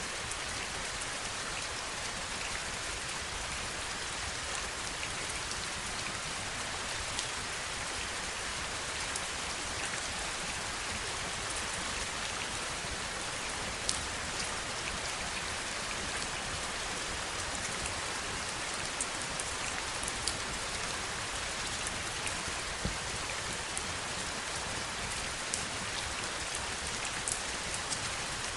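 Heavy rain falling steadily: an even hiss with scattered sharper ticks of single drops, the loudest at about 14 and 20 seconds in.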